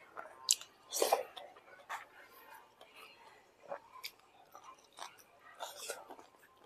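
A person chewing a mouthful of rice and squid eaten by hand, close to a clip-on microphone: scattered short mouth smacks and clicks.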